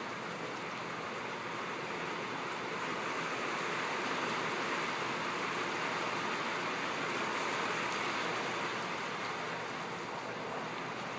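Rain falling on a tin roof: a steady, dense hiss, a little louder in the middle.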